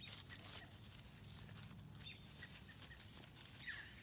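Faint rustling steps through grass or brush, with a few short high chirps from a small animal or bird, the last one sliding down in pitch near the end.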